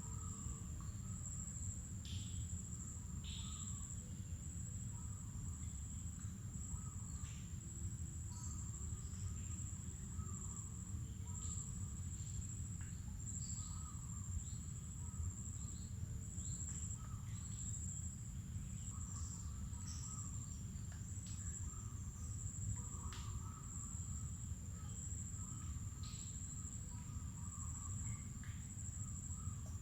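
Insects keep up one unbroken high-pitched trill. Short bird chirps and calls come here and there over it, all above a steady low rumble.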